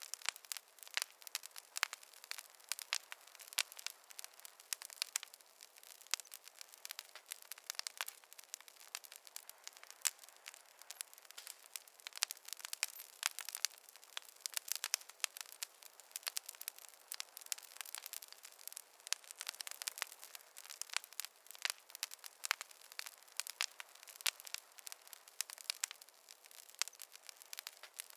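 Campfire crackling: dense, irregular sharp pops and snaps of burning wood over a soft hiss.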